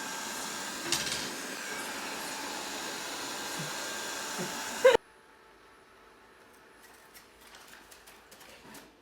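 Robot vacuum cleaner running with a steady whir, which cuts off abruptly about five seconds in. Faint clicks and small handling knocks follow.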